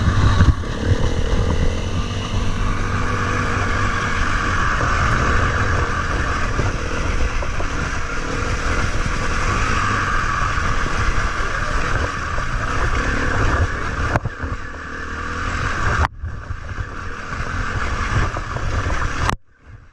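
KTM 350 EXC-F single-cylinder four-stroke enduro engine running steadily under throttle while the bike is ridden. The sound dips briefly a couple of times late on and cuts away sharply near the end.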